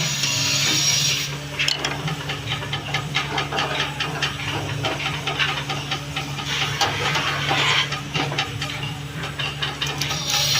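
Electric woodworking machine running with a steady hum while a tool works the wood: a hiss for the first second or so, then rapid irregular scraping and ticking.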